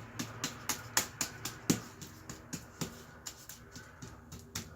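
Texture brush dabbing drywall mud onto a wall: quick, slightly irregular wet taps, about four a second.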